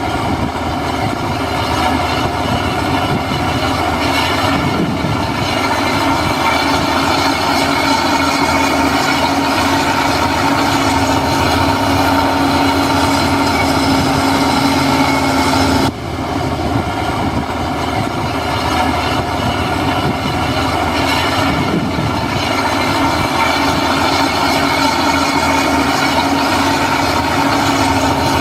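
Heavy diesel earthmoving machinery running steadily under load. There is a short sudden break about sixteen seconds in.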